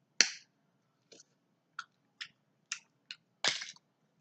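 Close-miked eating sounds of seafood: a string of sharp clicks and cracks, about one every half second, the loudest just after the start and a longer crackle about three and a half seconds in.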